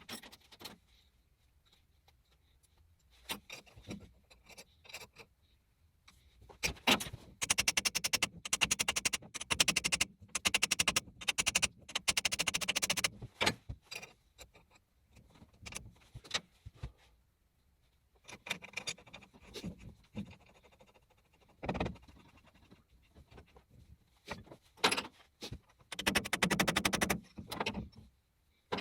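Irregular bursts of scraping and rattling, with a few sharp knocks between quieter gaps.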